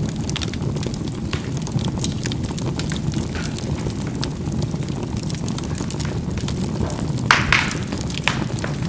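Charcoal burning in a fireplace: a steady low rumble of the fire with frequent small crackles and pops of the charcoal bursting, and a louder cluster of pops about seven seconds in.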